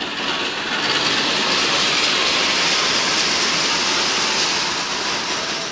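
Diesel-hauled passenger train pulling in alongside the platform: a loud, steady rushing of wheels on the rails that swells within the first second and eases off near the end as the train slows to stop at the station.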